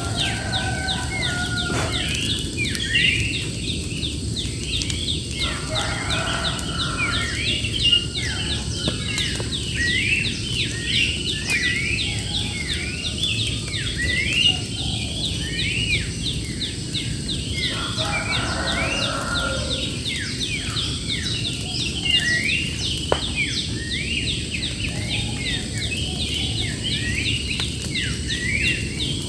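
Many birds chirping rapidly and continuously in a dense chorus, over a steady low rushing noise.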